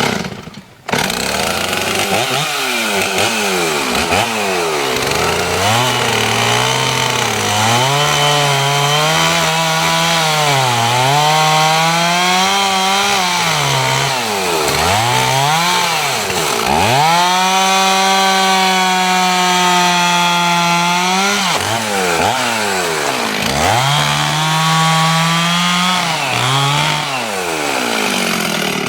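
Two-stroke chainsaw cutting through a dead hemlock trunk in the final felling cut. It picks up about a second in, and its engine pitch repeatedly dips and recovers as the chain bogs in the wood, with a longer steady full-throttle stretch midway. Near the end it drops back toward idle.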